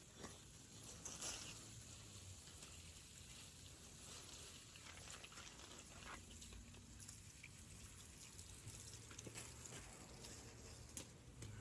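Faint, steady hiss of water spraying from a hose, with scattered light clicks and patters.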